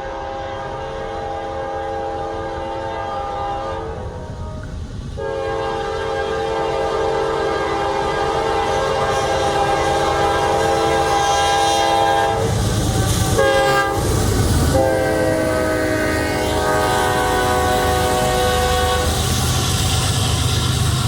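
Locomotive air horn sounding several notes at once in long blasts, with a short break about four seconds in. Around twelve seconds in, a loud noisy rush as the locomotive goes by, then the horn again with its pitch dipping. Near the end, the train's cars rumble and clack over the rails.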